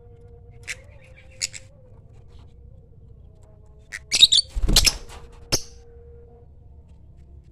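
Lovebird giving short, shrill calls: two brief ones in the first two seconds, then a quick burst of several about four to five seconds in, with a low thump among them, and one more shortly after. A faint steady hum runs underneath.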